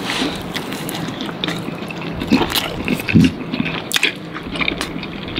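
Takoyaki being chewed close to the microphone: open-mouthed chewing with many small clicks and smacks.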